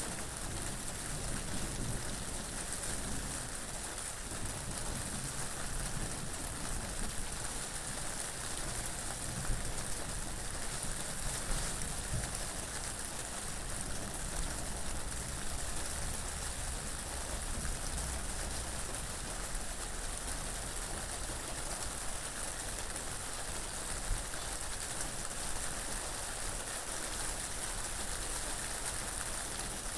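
Steady rain falling and pattering on surfaces, an even hiss with a few slightly louder drops.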